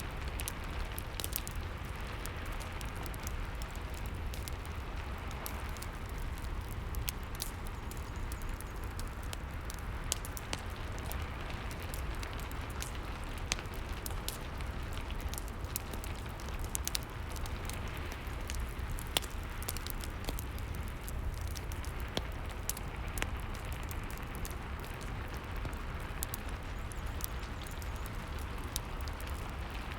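Rain and fireplace ambience: a steady hiss of rain over a low rumble, with a wood fire crackling and giving scattered sharp pops.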